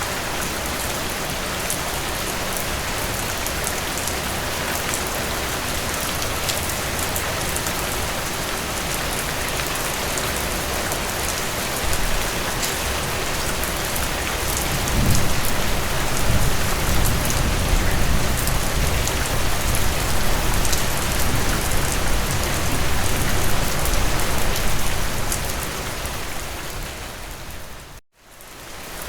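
Steady heavy rain falling on a surface, with individual drops ticking through the hiss. About halfway through, a deep low rumble swells in and fades out near the end, and the sound cuts out briefly just before the end before the rain returns.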